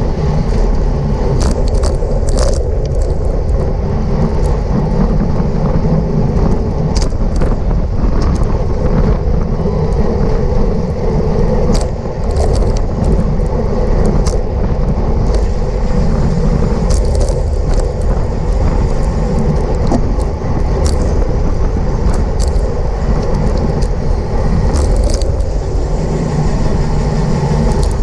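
Steady wind rush and rumble on the microphone of a road bicycle at racing speed, with scattered sharp clicks and rattles.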